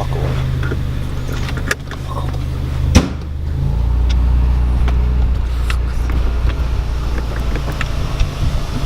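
2017 Ford Focus ST's turbocharged 2.0-litre four-cylinder engine running steadily, its sound no longer piped into the cabin now that the sound symposer is removed. A sharp knock about three seconds in, after which the engine's low note shifts.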